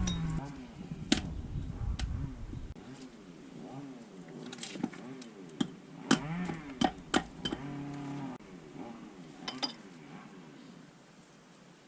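Cattle mooing in low, drawn-out calls, one trailing off at the start and another about eight seconds in, with scattered sharp clicks and knocks between them.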